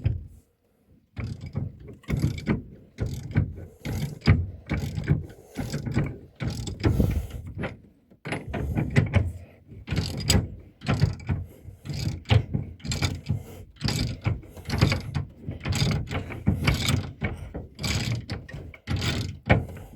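Hand ratchet wrench clicking in irregular runs of short strokes as a bolt is turned in a tight space.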